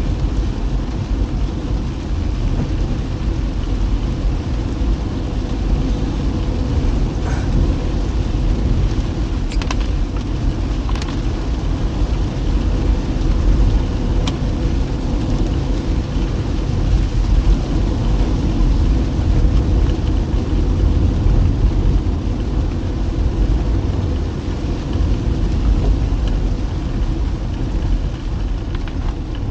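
A car driving at a steady pace: a continuous low rumble of engine and tyres on the road, with a faint steady hum and a few light ticks now and then.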